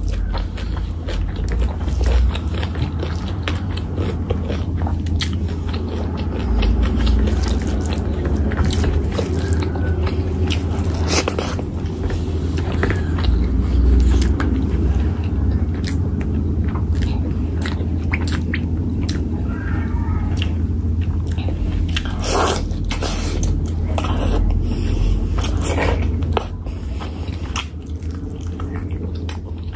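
Close-miked eating of rice and curry by hand: wet chewing and mouth clicks, with soft squelches of fingers mixing rice into the curry. A steady low hum runs underneath.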